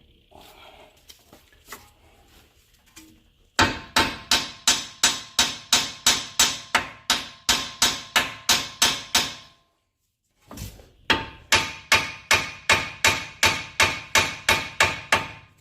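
Hammer blows on metal, driving a new front strut up into its lower mount on a Mini Cooper Countryman. The blows come in two quick, even runs of about three or four a second, each with a metallic ring, with a short pause between the runs.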